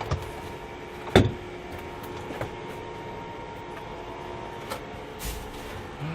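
Scattered knocks and clatter of someone moving about inside a wrecked bus, the loudest a sharp knock just over a second in, over a steady low hum.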